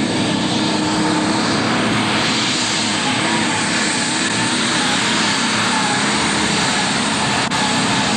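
Super stock pulling tractor's turbocharged diesel engine running loud and steady under full power.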